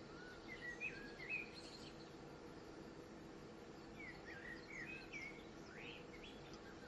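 Faint bird calls, short chirps in two clusters: about a second in, then again around four to five seconds in, over a faint steady low hum.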